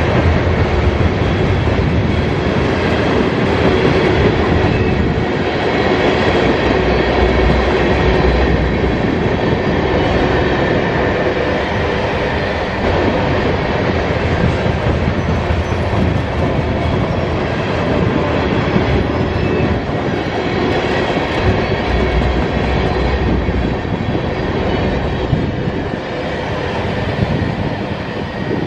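Mixed freight train rolling past: a steady rumble of steel wheels on rail, with a faint thin wheel squeal running over it.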